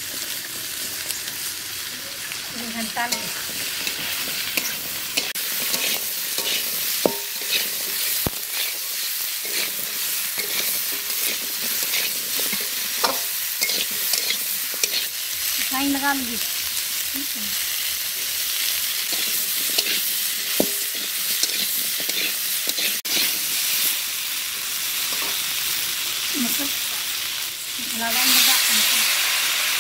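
Sliced radish and potato frying in oil in a metal kadai over a wood fire, sizzling steadily while a metal spatula scrapes and stirs against the pan. Near the end water is poured in and the sizzle surges louder.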